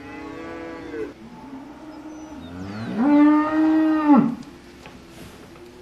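Cattle mooing: a short, quieter moo at the start, then a long, loud moo about three seconds in that rises in pitch, holds and drops away at its end.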